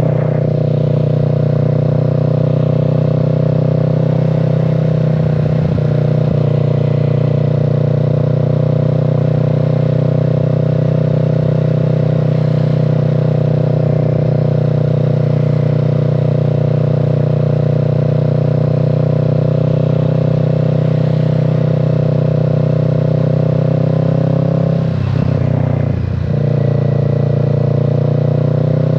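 Kawasaki Z650 parallel-twin engine and exhaust running at a steady engine speed while riding. Near the end the engine note dips briefly, then rises again.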